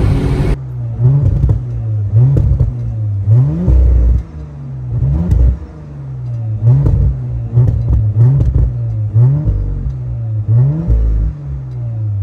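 2023 Audi RS4 Avant's 2.9-litre twin-turbo V6 being revved while parked: about a dozen short, sharp throttle blips, each rising quickly in pitch and dropping back to idle. The first half-second is the engine pulling under hard acceleration.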